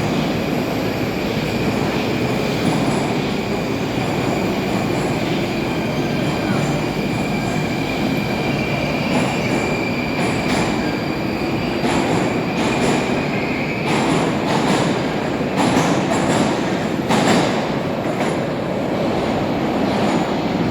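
Moscow Metro train running in the tunnel, a loud steady rumble with a high whine that holds for several seconds and stops about two-thirds of the way through. In the second half the wheels give a series of sharp clacks over the rail joints.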